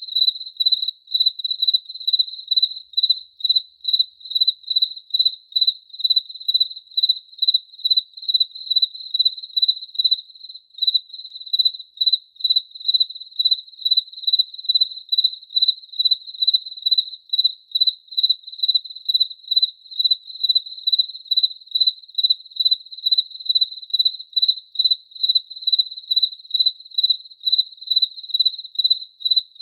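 A cricket chirping steadily in an even rhythm of about two high, clear chirps a second.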